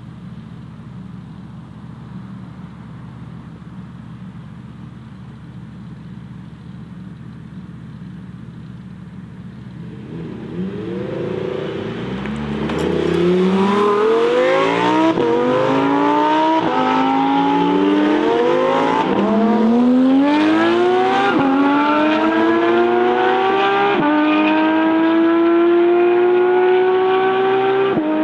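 Mercedes-AMG GT Black Series' twin-turbo V8 running steadily at low revs, then accelerating hard from about ten seconds in: the engine note climbs in a run of rising sweeps, each broken by a quick drop at an upshift, about five gear changes in all.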